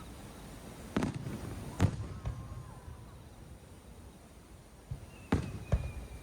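Fireworks shells bursting in the sky: five sharp bangs in two clusters, the loudest about two seconds in, with a faint high whistle slowly falling in pitch near the end.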